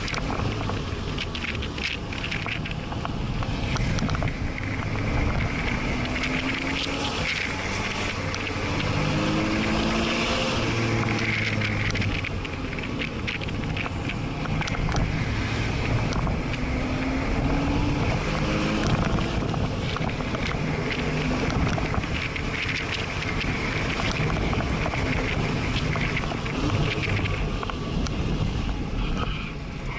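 Porsche sports car's flat-six engine heard from inside the cabin while lapping a track, its pitch rising and falling as the car accelerates out of corners and slows into them. Wind and tyre noise run steadily underneath.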